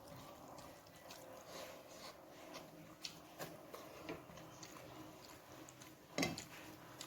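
Close-miked eating sounds: soft chewing and small wet mouth clicks scattered through, with one louder click about six seconds in.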